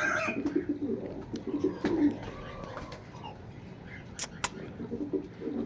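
Pigeons cooing softly, with two sharp clicks a little after the middle.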